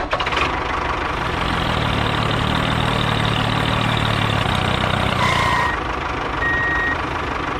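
Toy tractor's engine sound running steadily, with short high beeps about five and six and a half seconds in.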